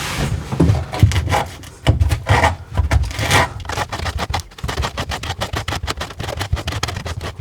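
Hand-sanding the cut end of a CPVC water pipe: quick back-and-forth rubbing strokes, several a second, to square off an uneven cut.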